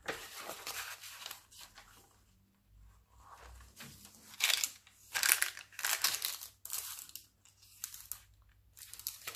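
Paper pages of a handmade junk journal rustling and crinkling as they are handled and turned, in a run of short rustles, the loudest a little past the middle.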